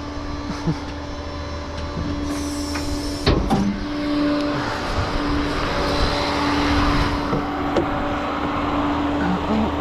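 Tow truck's engine running steadily, heard from inside the cab, with a short hiss about two seconds in.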